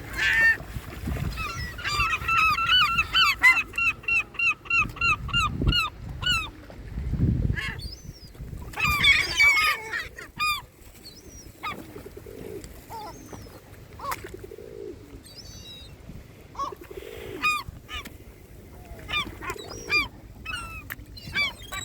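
Waterbirds calling: a fast run of loud, repeated honking calls, about four a second, for several seconds, then a burst of overlapping calls, then scattered single calls.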